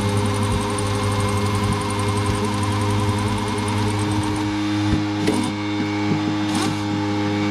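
Steady mechanical hum with a fine rhythmic whir over it; the whir stops about four and a half seconds in, and a few light clicks follow.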